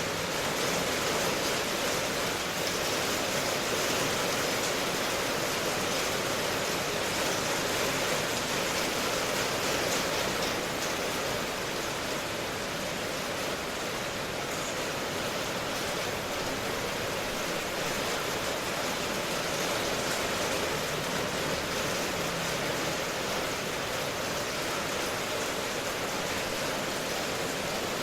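Steady rainfall ambience: an even, continuous hiss of rain with no distinct drops or thunder.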